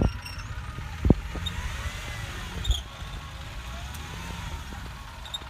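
Vehicle engines running with a steady low rumble, their pitch rising and falling gently, broken by two sharp thumps, about a second in and again near three seconds.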